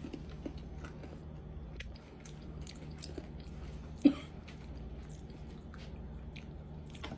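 People chewing crunchy honey butter pretzel snacks: a scattered run of short, crisp crunches, with one louder sudden sound about four seconds in.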